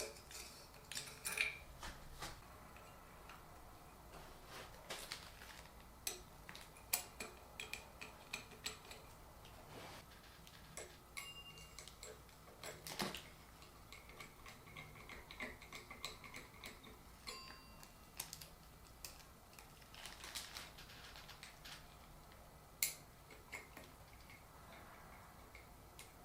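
Scattered light clicks, taps and clinks of small metal parts being handled and fitted as a ceiling fan light kit is put on.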